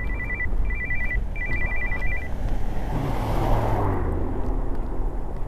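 An electronic two-tone trilling beep sounds in three short bursts over the first two seconds, over a steady low vehicle rumble; traffic noise swells briefly about three to four seconds in.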